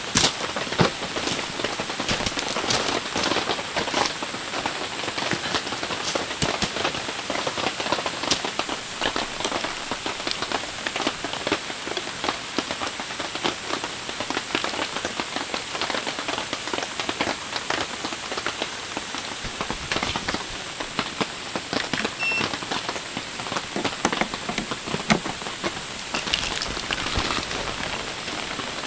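Heavy rain falling steadily, with many sharp, close drop hits over the dense hiss of the downpour.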